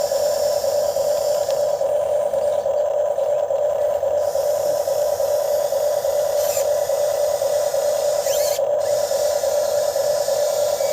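RC excavator's motor running with a steady, unchanging whine.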